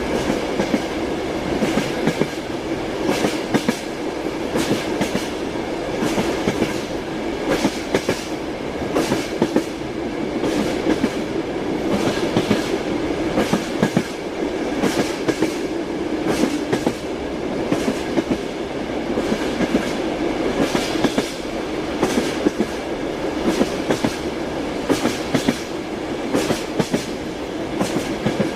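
Train wheels clacking over rail joints in a repeating clickety-clack, clusters of sharp knocks every second or two over the steady rumble of the moving railway carriage.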